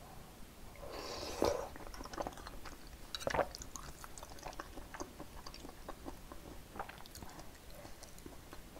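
Close-miked chewing of soft sujebi dough pieces in perilla seed broth: wet, irregular mouth sounds with two louder wet bursts about a second and a half and three and a half seconds in.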